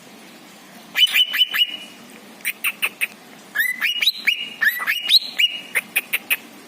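A caged songbird chirping in quick bursts of short, sharp notes, some of them rising and then held briefly, with short pauses between the bursts.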